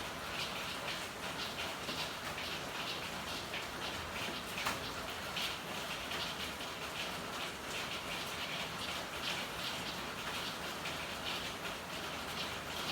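Steady rain falling in an alley: a constant hiss of rainfall with many individual drops and drips pattering irregularly, one of them sharper about a third of the way in.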